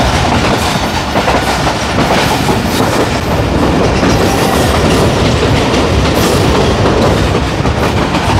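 Passenger train running along the track, heard from on board: a loud, steady rumble with wheels clattering over the rails.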